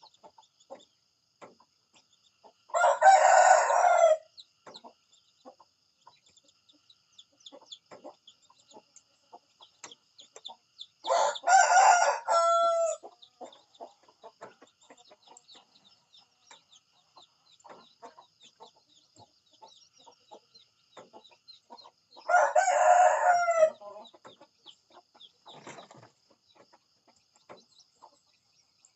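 Rooster crowing three times, each crow about a second and a half long, spaced roughly ten seconds apart.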